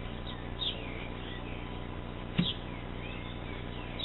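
Birds chirping, short falling chirps several times, with a single knock about two and a half seconds in as the beehive's top lid is set down.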